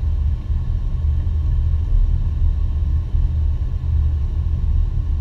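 Steady low rumble of an airliner's flight deck: engine and airflow noise.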